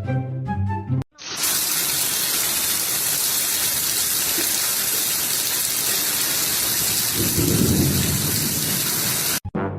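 Steady heavy rain hissing, with a low rumble of thunder swelling and fading about seven seconds in. It is preceded by a second of background music and cuts off suddenly near the end.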